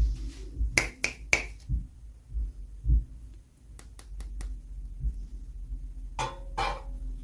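Small plastic clicks and crackles from handling toy packaging and miniature toy parts: three sharp clicks in quick succession, a run of light ticks, then two longer crinkling handling sounds near the end, over soft low thuds.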